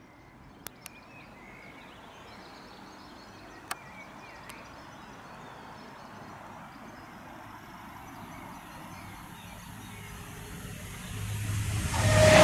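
Quiet outdoor background with faint birdsong and a few sharp clicks. Near the end an approaching HST's MTU diesel power car comes in as a low engine drone that swells quickly.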